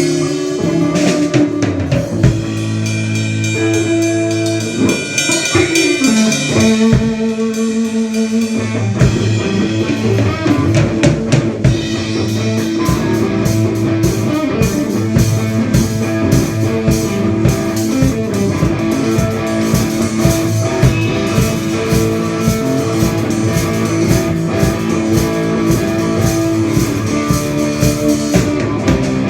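A band playing an instrumental passage: guitar over a drum kit, with steady drum beats from about a third of the way in.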